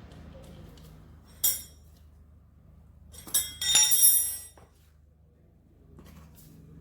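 Hard objects clinking with a bright ring: one clink about a second and a half in, then a cluster of ringing clinks around three to four and a half seconds in, over a faint steady hum.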